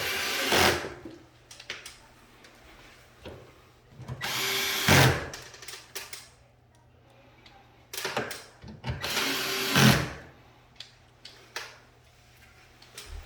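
Cordless drill-driver running in short bursts, about a second each, four times, with small clicks and knocks between. It is driving screws while a ceiling cassette air conditioner is put back together after cleaning.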